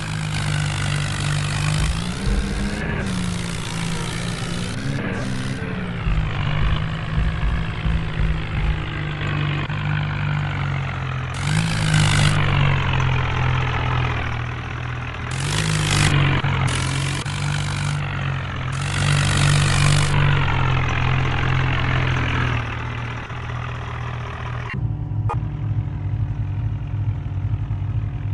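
HMT tractor's diesel engine running under load, its pitch rising and falling several times as it is revved, with several loud bursts of hiss lasting about a second each. Near the end it settles to a steadier, lower running.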